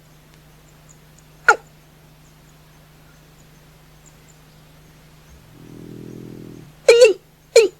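Watercock (cúm núm) calling: one short, sharp note falling in pitch about a second and a half in. Near the end it breaks into a quickening series of the same loud notes, just after a brief low drone.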